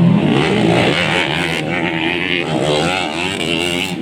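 Several modified underbone motorcycle engines running hard at once in a motocross race, their pitch rising and falling as the riders work the throttle.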